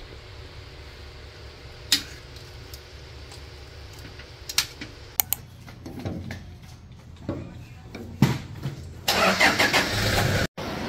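A vehicle engine running with a steady low rumble and a few sharp clicks. A louder, noisier sound starts about two seconds before the end.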